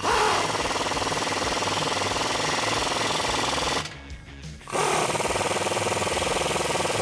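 Impact wrench with a 15mm socket hammering in two runs of about three to four seconds each, with a short pause between them, as it tightens down the exhaust clamps.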